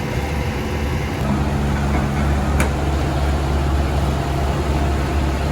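Heavy truck's diesel engine running under load, its note growing stronger and steadier about a second in, with a single sharp click midway.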